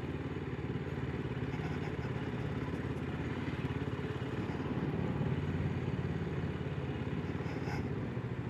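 BSA 650 single-cylinder motorcycle engine running steadily under way, a little louder around the middle.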